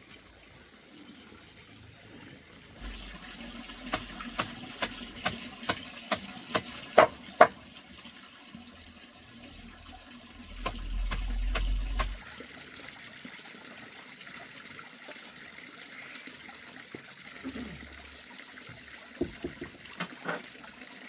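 A run of sharp knocks, about two a second, followed by a steady wash of noise like running or trickling water, with a brief low rumble midway.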